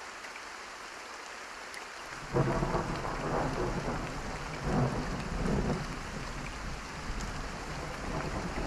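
Steady rain falling, then a thunderclap breaks in suddenly about two seconds in and rolls on as a low rumble, swelling again around the middle.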